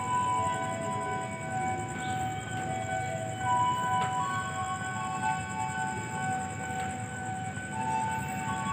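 An electronic warning siren: steady tones held for about a second at a time, stepping between several pitches, over a continuous low rumble.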